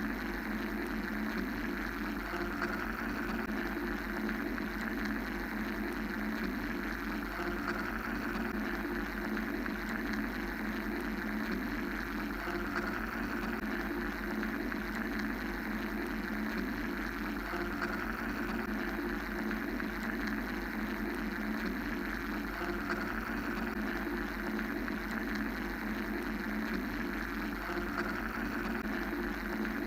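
Steady mechanical drone of white noise: a constant low hum under a dense hiss, with the higher hiss slowly swelling and fading every few seconds.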